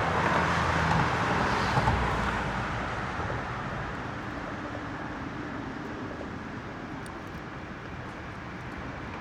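Road traffic going by, loudest in the first two or three seconds as a vehicle passes, then easing to a steadier background rush.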